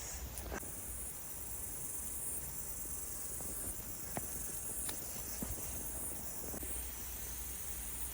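A high-pitched insect chorus from the bush, a steady shrill drone that swells and eases every second or two, over a low rumble.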